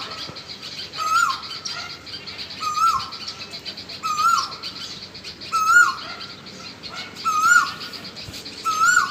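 A bird calls over and over, about every one and a half seconds: each call is a short held note that drops sharply in pitch at its end. A steady high chirring runs behind it.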